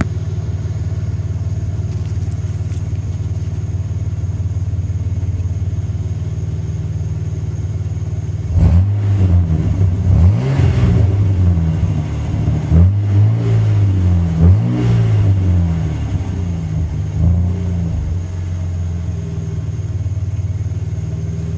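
1994 Ford F-150's 4.9-litre inline-six running through an aftermarket dual exhaust. It idles steadily, is revved repeatedly from about eight seconds in for roughly ten seconds, then settles back to idle. Not super loud.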